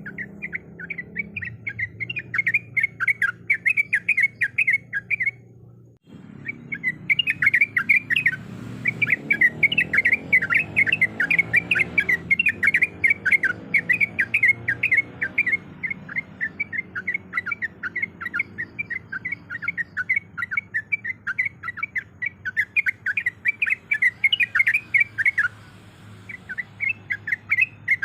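Yellow-vented bulbul (trucukan) song: fast, chattering strings of loud chirping notes, breaking off about five seconds in and resuming a second later, over a low background hum.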